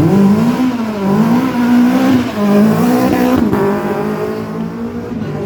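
Rally car engine revving hard, the pitch jumping up at the start and swinging up and down under repeated throttle, then dropping and holding lower about three and a half seconds in.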